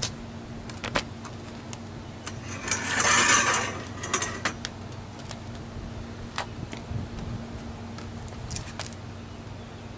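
Small fireworks: a short hissing rush lasting about a second, about three seconds in, among scattered sharp pops and crackles, over a steady low hum.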